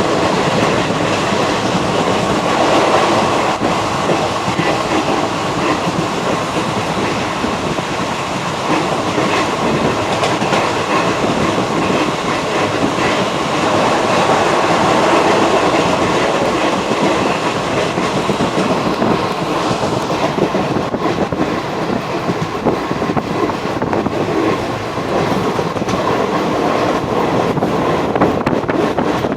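Train 15006 Raptiganga Express running at high speed: a loud, steady noise of wheels on track that holds on without a break.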